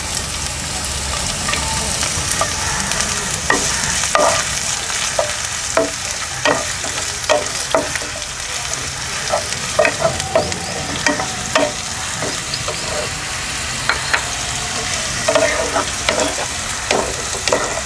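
Chopped onion frying in hot oil in a non-stick kadai, a steady sizzle, while a wooden spatula stirs it with frequent light, irregular scrapes and knocks against the pan.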